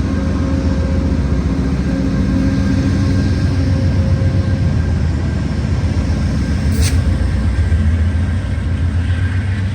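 Amtrak diesel-electric locomotives (an ALC-42 Charger and a P42) running with a steady deep rumble and a few held tones above it. A single short sharp click comes about seven seconds in.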